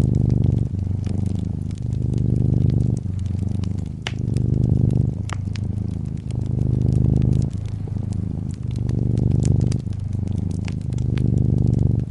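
Cat purring in a steady low buzz that swells and eases with each breath, over the crackle and pop of a wood fire in a fireplace, heard as scattered sharp snaps.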